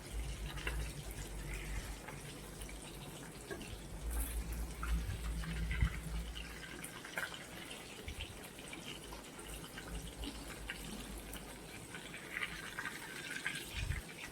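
Fish frying in hot oil in a pan: a steady sizzle with scattered pops and crackles of spattering oil.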